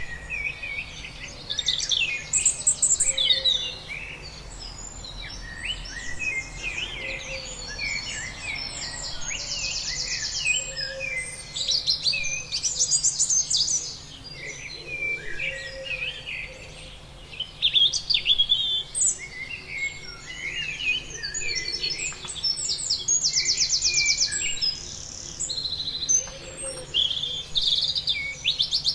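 Several birds calling and singing at once: a dense chorus of overlapping chirps and fast trills.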